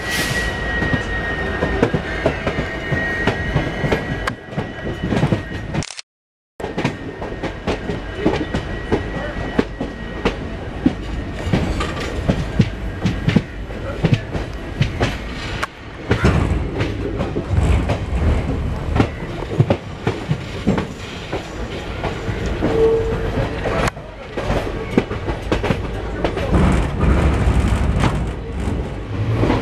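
Train running on the rails: wheels clicking and clattering over rail joints with a steady rumble. A high-pitched wheel squeal holds for the first few seconds. The sound drops out briefly about six seconds in.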